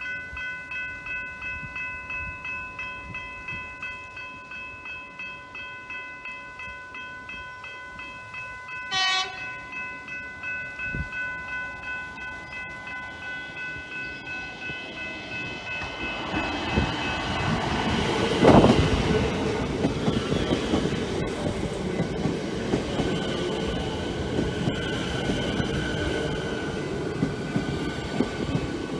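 Level crossing bells ring in a steady rapid pulse. About nine seconds in, a train horn gives one short toot. From about sixteen seconds a train arrives and runs through, with rising wheel and rail noise and a loud clack.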